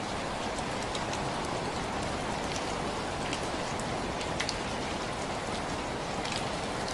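Steady rain falling: an even hiss with scattered individual drops ticking on a surface.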